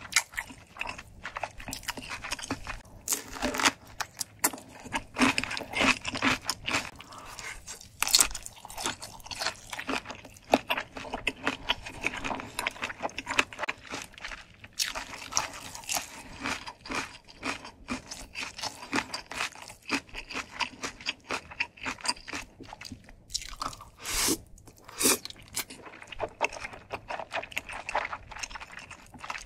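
Close-miked chewing of ramen and dumplings, with crunching bites of a whole yellow pickled radish (danmuji); irregular chewing clicks and crunches go on throughout, a few crunches standing out louder.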